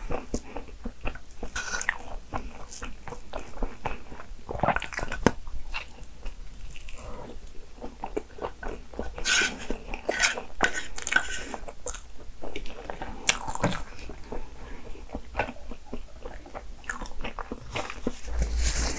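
Close-miked eating: a person biting and chewing crepe cake with whipped cream, a steady run of small mouth clicks and smacks.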